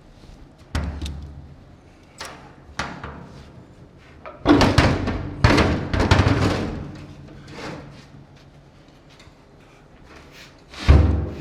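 Metal knocks and bangs at irregular intervals, with a dense clatter of bangs about halfway through and a heavy bang near the end: work on an aluminum fuel tank as a baffle is forced back into place.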